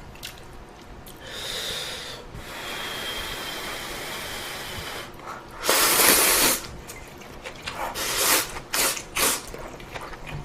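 Close-miked mouth and breath noises from someone eating: a hiss lasting a few seconds, then one loud short burst of noise about six seconds in, followed by several brief ones.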